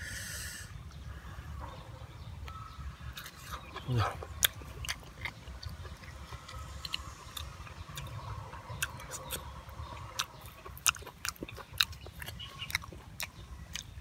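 A man chewing grilled sausage close to the microphone, with many sharp wet lip smacks and mouth clicks. There is a brief rustle at the start as he handles the food on a banana leaf.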